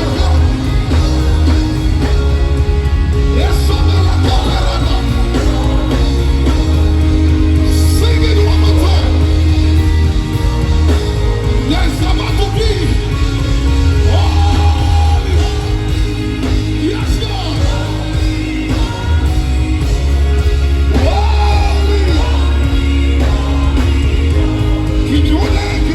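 Live gospel worship music: voices singing over a band with a heavy, steady bass and sustained keyboard chords.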